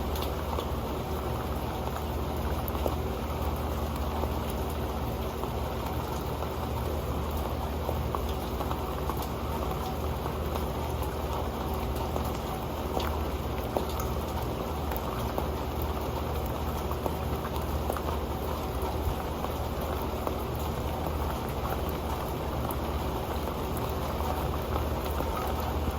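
Rain falling steadily onto an old pan, the drops pattering and ticking on it over a constant rain hiss.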